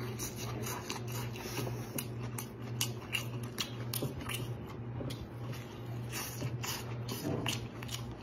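Close-up chewing and lip smacking on spicy lobster tail meat: a run of irregular clicks over a steady low hum.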